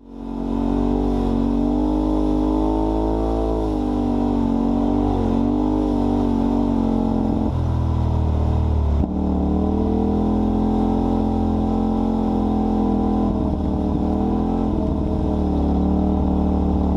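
Off-road vehicle engine running while driving, its note rising and falling with the throttle and changing abruptly about seven and a half and nine seconds in.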